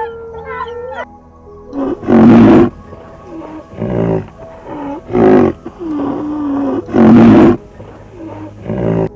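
An animal's loud calls, about five of them, each lasting roughly half a second and spaced about a second and a half apart, the two loudest about two and seven seconds in.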